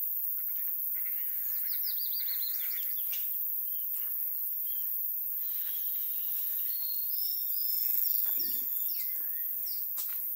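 Wild birds calling over a steady background hiss: a quick run of sweeping chirps about two seconds in, then a longer series of repeated down-slurred whistles in the second half.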